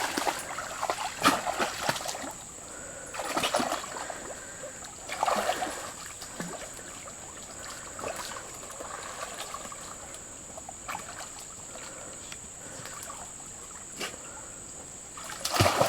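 A dog wading and splashing in shallow water, in irregular splashes every second or two.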